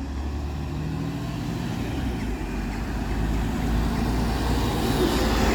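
Alexander Dennis Enviro400 MMC double-decker bus pulling off, its engine running and getting gradually louder as it moves.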